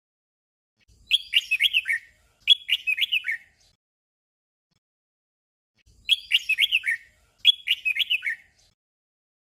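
Red-whiskered bulbul singing a short 'double' song: the same brief warbling phrase given twice back to back, and the pair repeated after a pause of a few seconds.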